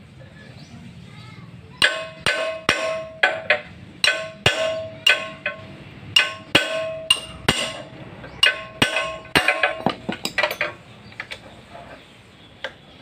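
Hammer blows on a metal part while a water-pump engine with a broken connecting rod is taken apart, each blow leaving a short metallic ring. About twenty blows come at roughly two a second, starting about two seconds in and stopping near the end.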